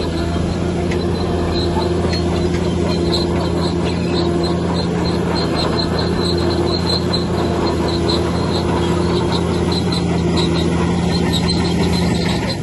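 Heavy earthmoving machine's diesel engine running steadily, with a high squeaking that repeats in quick pulses.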